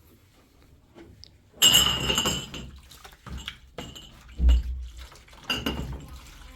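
Dishes and glassware clinking and clattering, with one loud, ringing clatter about one and a half seconds in and several lighter knocks after it.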